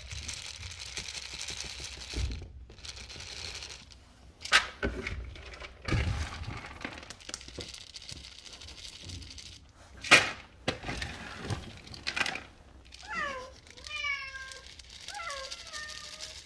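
Cat litter being scooped: a gritty scraping and rustling with a few sharp knocks. Near the end a cat meows several times in short calls that rise and fall in pitch.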